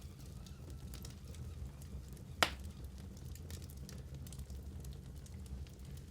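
Fireplace fire crackling over a steady low rumble, with scattered small crackles and one sharp, louder pop about two and a half seconds in.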